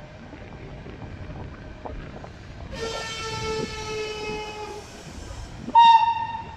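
Train horn sounding on a railway station: one long blast of a few seconds, its pitch dropping slightly, followed near the end by a short, louder, higher-pitched blast. A low rumble of rail noise runs underneath.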